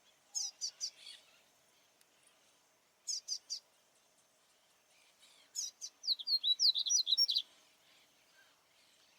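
Papa-capim baianinho, a Sporophila seedeater, singing: two short bursts of about four quick high notes near the start and about three seconds in, then a longer, louder run of rapid sweeping notes about six seconds in.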